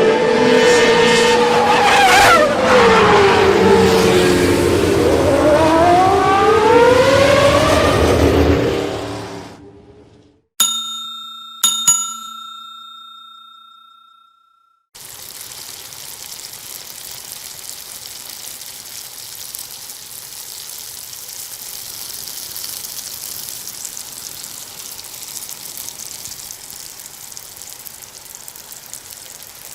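Three separate sound effects in turn. First, a race car's engine revving up and down with tire squeal, fading out about nine seconds in. Then two bell-like dings about a second apart, each ringing out, followed from about fifteen seconds in by a steady hiss of rain.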